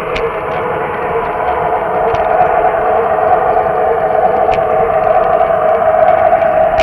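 Lionel O gauge model train running on Super O track: a steady motor and gear hum, growing louder from about two seconds in, with a few sharp clicks.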